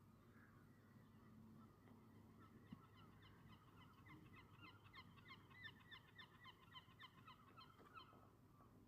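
A flock of birds calling faintly, many short calls overlapping in a rapid chatter that builds about three seconds in and fades near the end.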